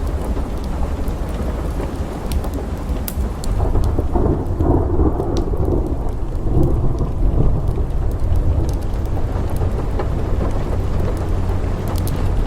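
Thunder rumbling over steady rain, swelling about four seconds in and dying back by about nine seconds, with scattered sharp crackles.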